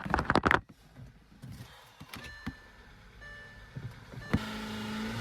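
A quick run of loud clicks, then a few faint single clicks, as a car with a completely flat battery is tried on jumper cables and fails to start.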